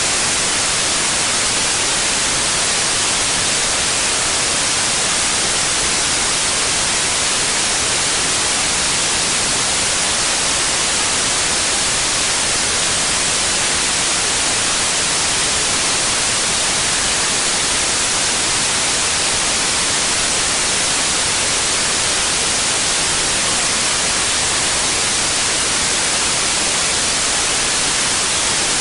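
Steady electronic white noise: an even, unbroken hiss with most of its energy in the high frequencies.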